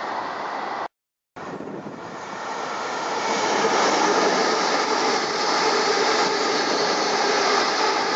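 Train passing on a railway bridge: a steady running rumble with a hum of several steady tones, growing louder from about three seconds in and then holding. A brief dead-silent gap about a second in, where the recording cuts.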